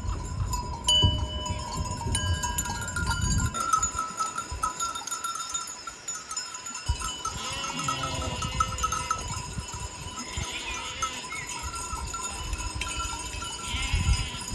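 Sheep bells clanking steadily as a flock grazes, with sheep bleating a few times from the middle on. Low thuds of movement in the first few seconds.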